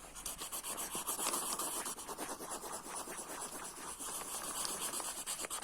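Colored pencil scribbling on paper in fast back-and-forth strokes, a quick continuous scratching.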